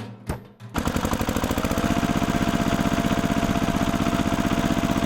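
A small engine starts up about a second in and then runs steadily with a fast, even pulsing.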